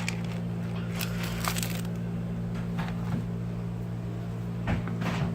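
Steady low mechanical hum with a few short rustles and clicks from close handling.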